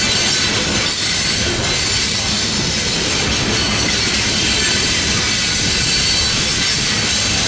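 Freight train rolling past: a steady rumble and clatter of wheels on rail, with a faint steady high squeal from the wheels.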